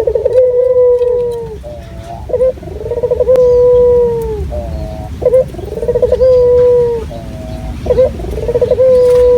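Male puter dove (local Barbary dove) cooing over and over: four long, level, ringing coos, each led in by a few short broken notes and dropping away at the end, one about every two and a half to three seconds.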